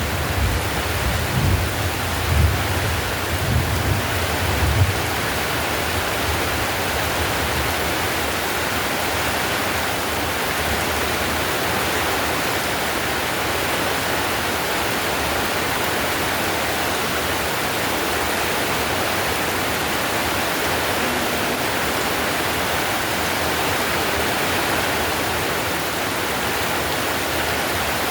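Heavy rain falling on a clay-tile roof, a steady dense hiss. A low rumble comes and goes during the first five seconds or so.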